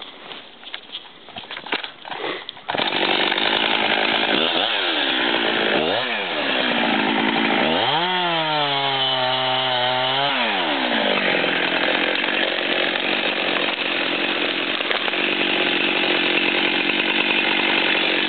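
A few faint knocks, then a Husqvarna chainsaw comes in suddenly about three seconds in. It is blipped twice, held at high revs for a couple of seconds, then runs steadily under load through the back cut of a tree felling.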